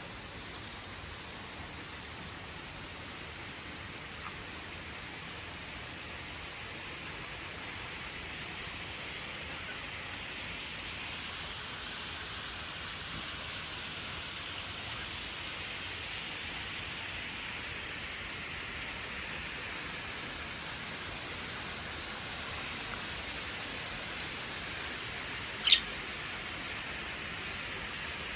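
Steady outdoor nature hiss, slowly growing louder, with a single short sharp chirp near the end.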